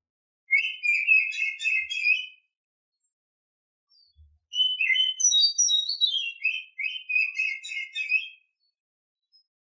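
Female oriental magpie-robin (kacer) singing two phrases of rapid, chattering whistled notes: one about half a second in, and a longer one from about four and a half seconds in that glides up high and comes back down. This is the mating-season song of a female, the kind used to rouse male kacers in breeding condition.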